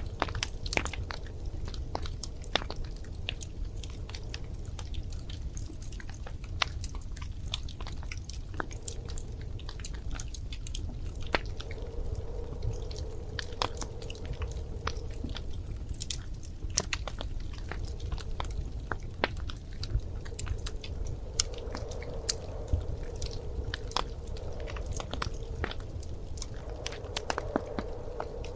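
Wood fire crackling: irregular sharp pops and snaps over a steady low rumble of the burning fire. A faint steady tone comes and goes in the second half.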